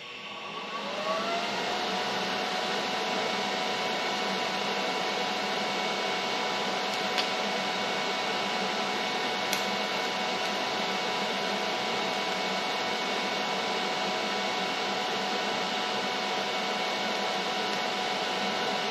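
An electric motor spins up over about a second, then runs at a steady whir with a constant hum, with two light clicks partway through.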